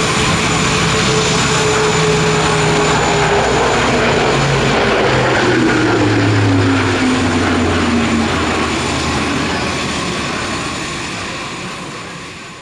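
Airbus A400M's four turboprop engines droning as it flies past, the tone dropping in pitch as it goes by, then fading away near the end.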